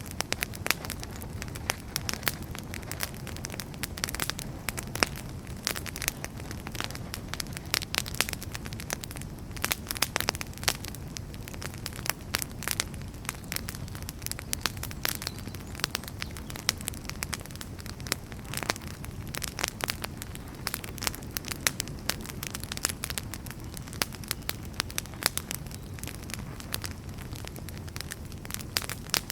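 Wood fire burning, with dense, irregular crackles and pops over a steady low rumble of flames.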